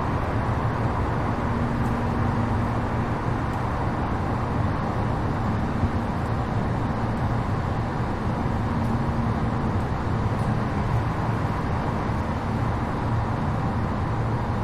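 Steady running noise of an E233 series 7000 electric train under way: an even rumble of wheels and motors, with a faint steady motor tone that comes and goes.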